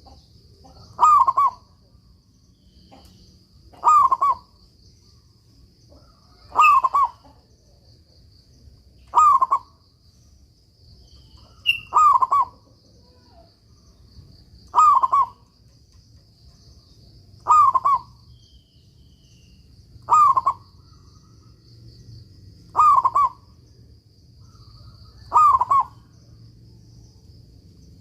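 Local zebra dove (perkutut) in full song: ten short cooing phrases, one about every two and a half to three seconds, over a faint steady high tone.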